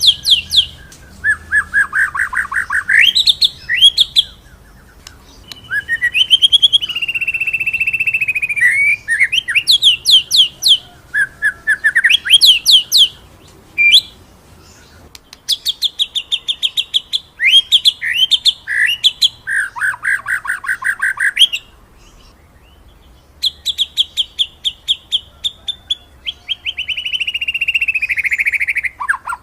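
White-rumped shama (murai batu) singing in loud phrases: fast rolling trills of repeated notes and long high whistles that slide slowly downward, with short pauses between bursts.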